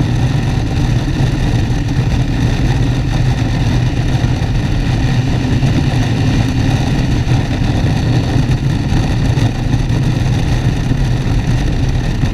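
Motorcycle engine running steadily under way, holding an even pitch, with a constant rush of noise.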